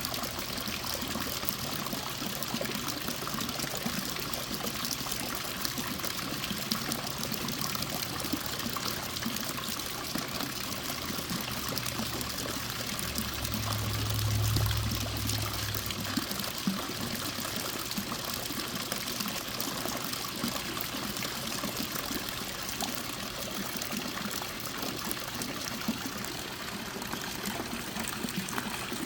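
Water fountain running, a steady trickle and splash of water. A low hum swells for a few seconds about halfway through.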